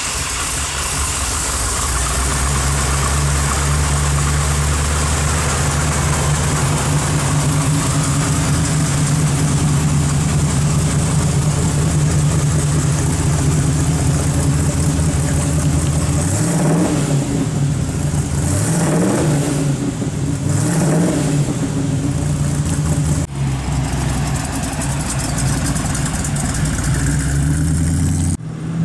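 Chevrolet 350 V8 in a 1980 Jeep CJ5 idling steadily through its dual exhaust. About halfway through it is revved up and back down several times, then it settles back to idle.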